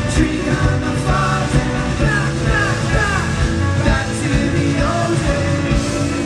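Indie rock band playing live through a PA, with drums, guitars and a voice singing over them.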